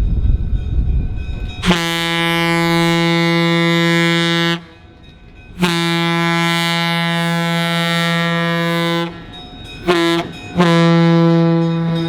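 Air horn of CB&Q 9911A, the Nebraska Zephyr's E5 diesel locomotive, sounding the grade-crossing signal: two long blasts, a short one, then a long one that is still going at the end. A low rumble from the approaching train comes before the first blast.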